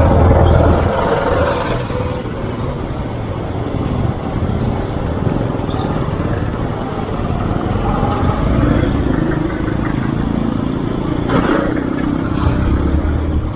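Road traffic: motor vehicles running and passing close by, with a steady rumble and hiss, swelling in the first two seconds and again near the end, and a short sharp sound about 11 seconds in.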